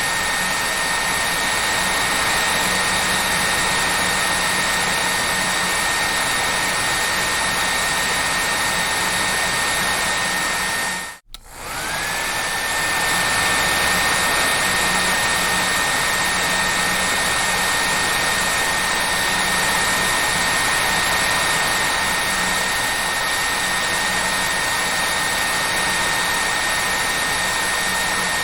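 Hair dryer running steadily: a full, even blowing hiss with a thin high motor whine. About eleven seconds in, the sound drops out for a split second, and then the whine climbs back up to its steady pitch.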